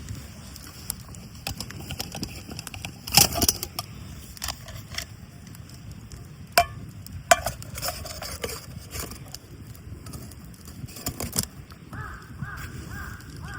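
Scattered clinks and knocks of camp gear being handled, the loudest a short clatter about three seconds in and two sharp clicks a little past the middle. Near the end, a short chirping call repeats a few times a second.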